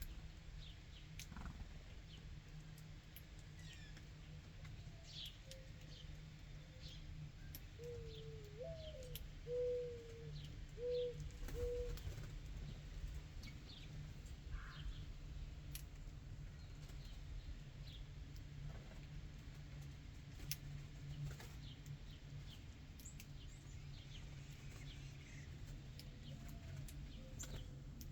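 Songbirds chirping with short high calls scattered throughout, and about a third of the way in a dove coos once: a rising first note followed by three or four steady low notes. A steady low hum runs underneath.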